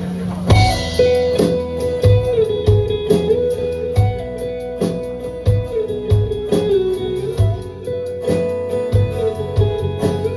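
Live rock band playing an instrumental intro: a held guitar melody that bends in pitch over strummed guitar, bass and a steady drum beat. The band comes in about half a second in.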